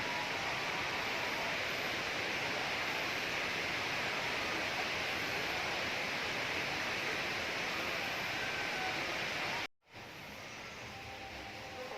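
Steady hiss-like noise that cuts out abruptly near the end, giving way to a quieter background.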